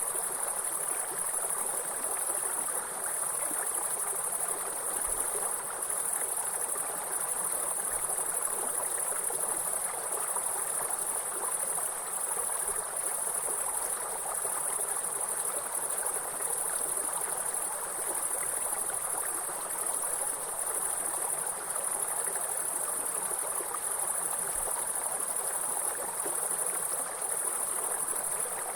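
Insects trilling continuously in a high, even band, with brief dips every second or two, over the steady rush of a water stream.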